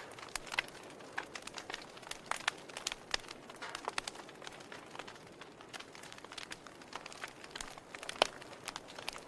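Wood fire in a fireplace crackling: irregular sharp pops and snaps of burning firewood over a soft steady hiss, with one louder pop near the end.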